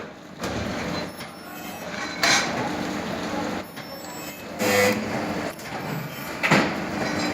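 Workshop machinery running with a steady mechanical noise, broken by four short, louder bangs or hisses about two seconds apart.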